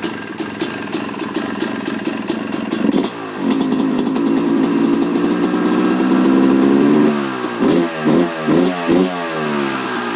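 2013 Yamaha YZ250's single-cylinder two-stroke engine, freshly started, running through an FMF Fatty expansion chamber and Powercore 2 silencer: it idles, is held at raised revs for about four seconds, then is blipped several times in quick succession before dropping back toward idle.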